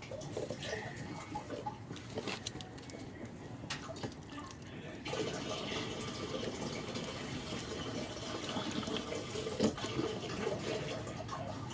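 Diesel exhaust fluid being poured from a jug into a truck's DEF tank, a steady pour starting about five seconds in, after a few clicks and handling noises.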